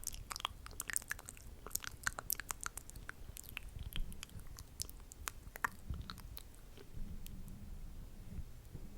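Close-up ASMR mouth sounds: irregular wet clicks and smacks of the lips and tongue, many in quick succession, thinning out towards the middle.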